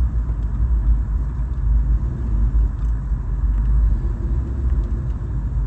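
1980s Ford Bronco driving along beach sand: a steady low rumble of engine and tyres, with a faint hum that comes in about four seconds in.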